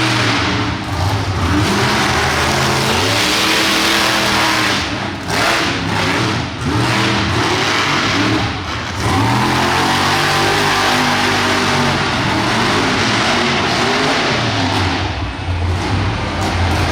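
Monster truck engine revving hard, its pitch climbing and falling over and over, with brief lifts off the throttle.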